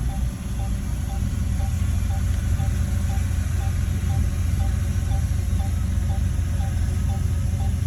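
Shantui bulldozer's diesel engine running steadily, with a faint short chirp repeating about twice a second over the engine rumble.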